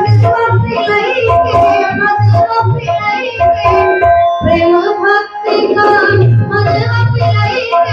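Live qawwali-style music: a harmonium's held notes with a steady drum beat and a child's singing voice. The drum drops out for about a second in the middle, then comes back.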